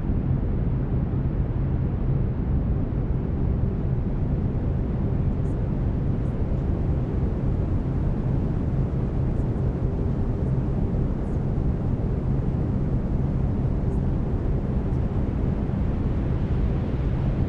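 Steady brown noise, a deep, even hiss heaviest in the low end, with faint steady low tones underneath from the binaural-beat layer.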